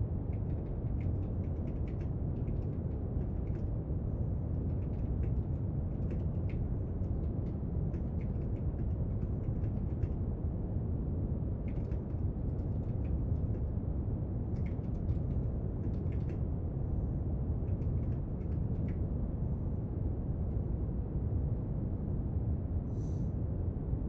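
Steady brown noise, a deep even hiss, with faint, irregular small clicks and taps of desk work scattered through it.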